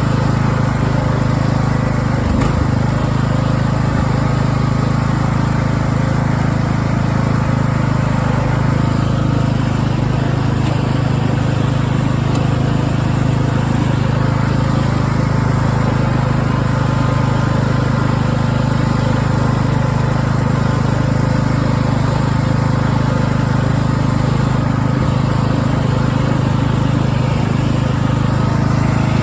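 Craftsman LT1000 riding mower running steadily under way, its freshly swapped-in engine giving an even, unchanging drone.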